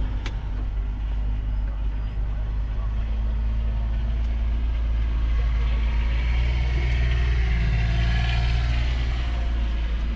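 A steady low drone with the murmur of background chatter over it.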